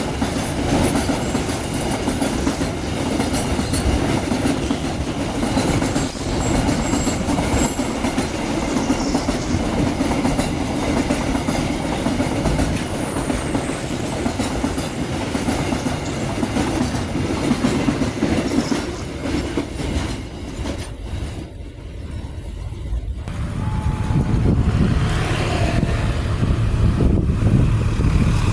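Long-distance train passing close by, its wheels clattering rhythmically over the rail joints. The sound drops away about three quarters of the way through, then another train's running sound builds up near the end.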